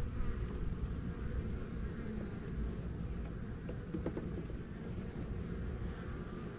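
Honey bees buzzing steadily around a small swarm being worked by hand, with a low rumble and a few faint knocks from handling.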